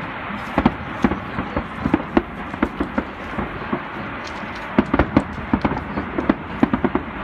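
Fireworks going off: a dense, irregular run of sharp cracks and pops over a steady hiss, coming thickest in the second half.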